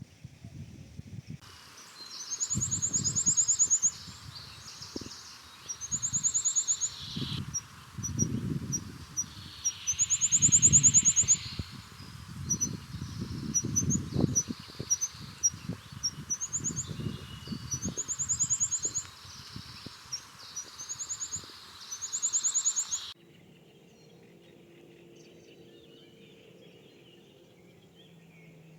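Birdsong: a bird repeating loud high trills every few seconds between short chirps, over low irregular rumbling. The birdsong starts abruptly about a second in and cuts off suddenly near the end, leaving a faint low steady hum.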